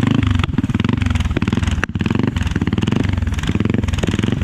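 Several motorcycle engines running at low revs with a steady, rapid pulsing as the bikes creep along in a slow race.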